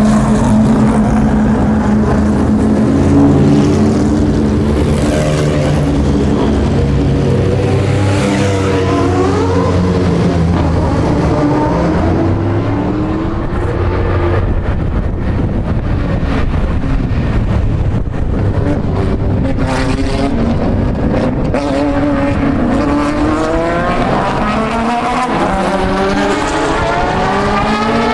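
Mazda 767B's four-rotor rotary engine running and revving, its pitch rising and falling several times and climbing steeply near the end.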